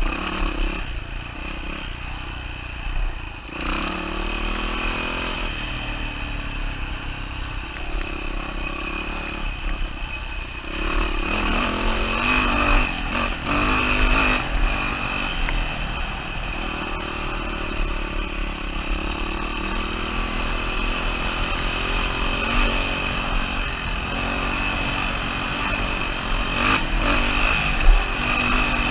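2007 Yamaha WR450F dirt bike's single-cylinder four-stroke engine running under load, its revs rising and falling again and again as the rider works the throttle. A sharp knock comes near the end.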